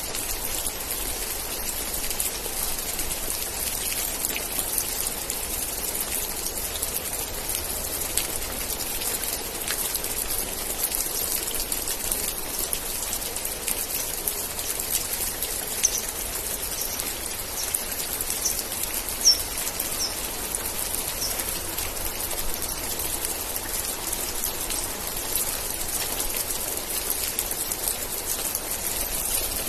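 Steady rain falling, a dense patter of drops. About halfway through, a run of roughly seven short, high chirps comes over some five seconds.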